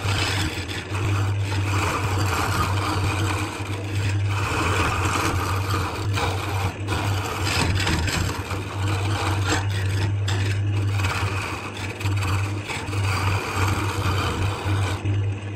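Wood lathe motor humming while a tool scrapes against the spinning wood in repeated passes. Near the end the scraping stops and only the motor hum remains.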